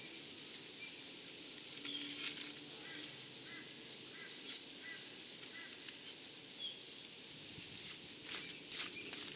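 Outdoor ambience with a steady high hiss and birds chirping in short repeated calls. A few brief scratching sounds come about two seconds in and again near the end, likely a tool scoring lines in wet cement render.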